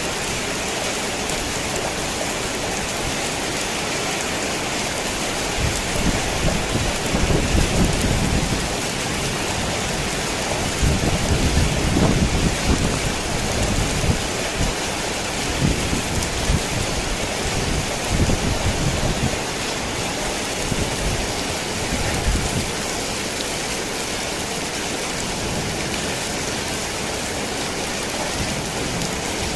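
Torrential rain falling steadily on a worn tin roof. Rolling thunder rumbles low underneath, starting about six seconds in, swelling in waves, and dying away a little after twenty seconds.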